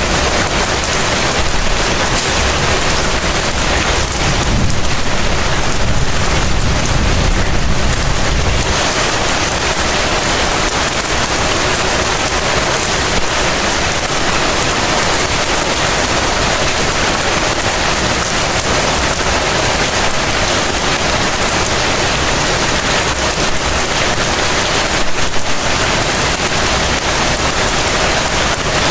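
Heavy rain falling steadily, a dense even hiss of drops. A low rumble swells under it from about four to nine seconds in.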